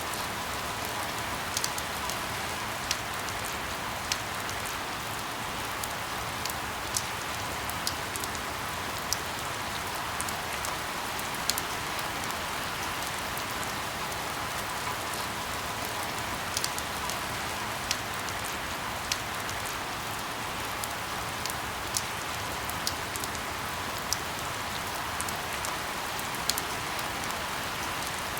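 Steady rain falling, with a dense even hiss and scattered louder drops ticking every second or so.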